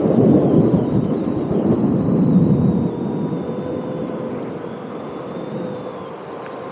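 Electric unicycle riding: a steady whine that creeps slowly up in pitch, over wind and road rumble that is loudest for the first three seconds and then eases off.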